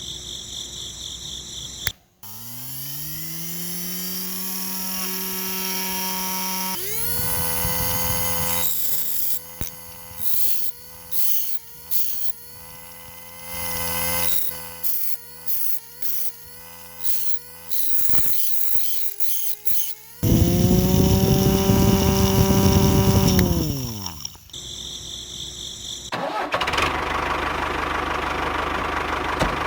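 Small electric motor of a homemade mini tractor and sander model. It spins up to a steady hum, then is switched on and off in a series of short bursts. It then runs loudly again before winding down and stopping.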